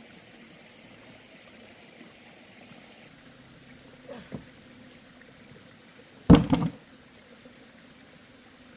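Steady high-pitched insect drone over a quiet background. There are two light knocks about four seconds in and a louder clatter of knocks a little after six seconds.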